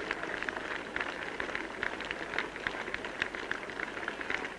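Large cricket crowd cheering and clapping as the players come off, heard as a steady, crackly wash of noise through an old, low-fidelity broadcast recording.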